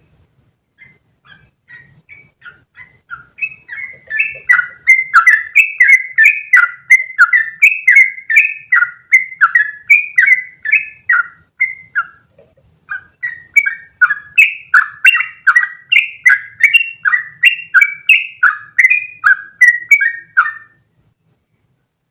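Yellow-vented bulbul (trucukan) singing a long, fast, chattering run of bubbly notes, about three a second. It starts softly, grows loud, breaks off briefly midway, then carries on before stopping near the end.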